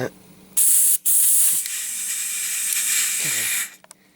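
Compressed air hissing loudly out of an air line as it is fitted to the engine's inlet: a short blast about half a second in, a brief gap, then a longer hiss of about two and a half seconds that cuts off near the end. The escaping air bleeds down the compressor's pressure.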